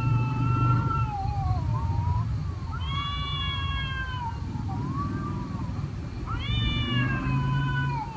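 Cat meowing: a run of long, drawn-out meows, about four, each bending in pitch, over a low rumble.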